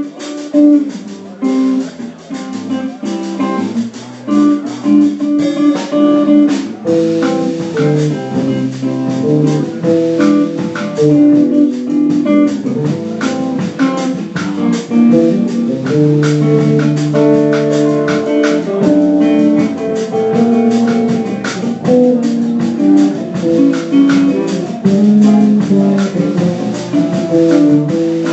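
Jazz music led by guitar, plucked notes and chords moving through a slow tune.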